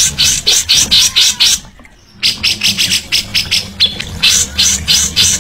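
Captive songbird giving a rapid run of short, harsh, scratchy notes, about five a second, broken by a brief pause about two seconds in.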